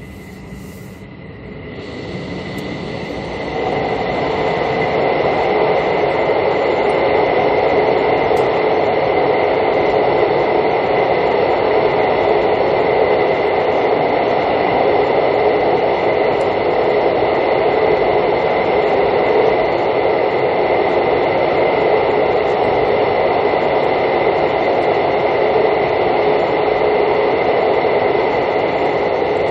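Mugunghwa-ho passenger train running through a tunnel, heard from inside the carriage. The wheel and rail noise grows loud over the first few seconds as the train enters and then holds as a steady, dense din with a thin high whine over it.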